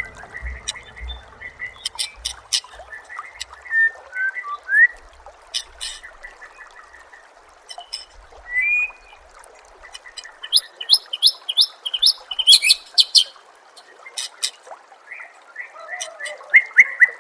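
Songbird chirps and calls: sharp clicks and short upswept whistles, then about ten seconds in a quick run of repeated rising notes, over a faint steady hiss.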